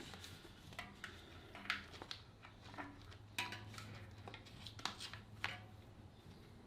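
Scissors cutting the packaging ties off a new bike: faint, irregular snips and clicks, several over a few seconds, over a low steady hum.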